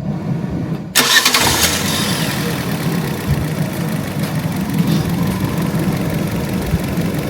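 2015 Fiat 500 Sport's engine idling with the air conditioning switched on. About a second in the sound suddenly gets louder with a hiss that fades over a second or two, then the engine runs steadily.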